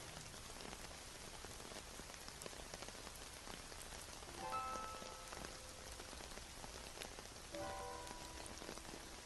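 Steady rain falling on a surface, with individual drops ticking through it. Soft notes of music sound faintly twice, about four and a half and seven and a half seconds in.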